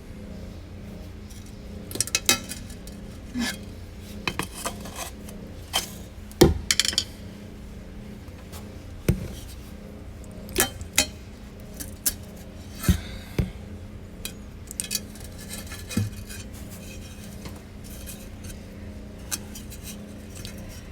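Irregular metal clinks and knocks of hand tools and parts at an opened rear differential, over a steady low hum.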